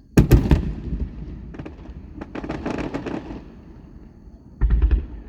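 Aerial fireworks bursting: a loud bang with quick cracks just after the start, then a run of rapid crackling, and another loud bang near the end.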